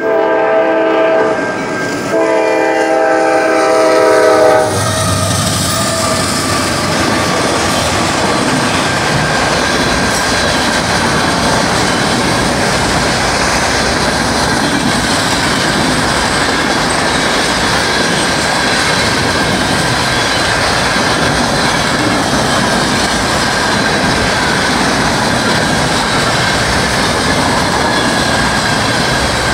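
Freight train horn sounding two blasts, the second longer, ending about four and a half seconds in. Then the Norfolk Southern freight cars roll through the crossing with a steady clatter of wheels on rail, and the grade-crossing bell rings throughout.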